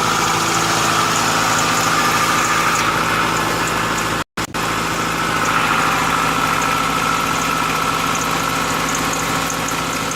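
Freshly built Honda B16A2 1.6-litre DOHC VTEC inline-four, with forged pistons and rods, idling steadily and smoothly on its first start-up. The sound cuts out for a split second a little over four seconds in.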